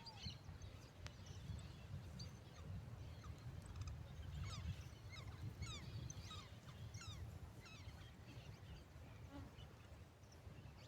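Birds calling in a pasture, a string of quick, high, falling chirps that cluster in the middle of the stretch, over a steady low rumble.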